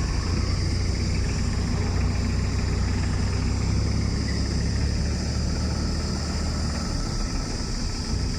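Heavy diesel engine running steadily at a low, even pitch.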